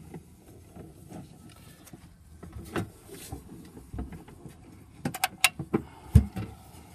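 Irregular handling knocks and clicks, with a quick run of sharp clicks about five seconds in and a heavy thump just after.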